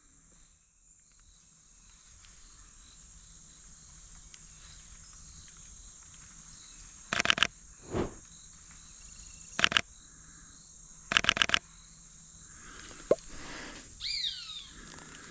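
Camera shutter firing in three quick bursts of clicks about halfway through, over a steady high drone of insects. A short call falling in pitch comes near the end.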